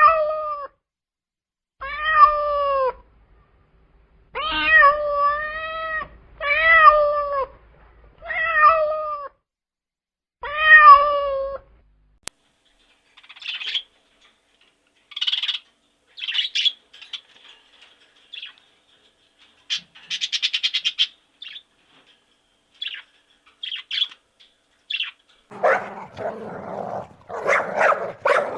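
A cat meowing six times, each meow about a second long. After that comes a run of short high-pitched chirps, and near the end a harsher, noisier animal sound begins.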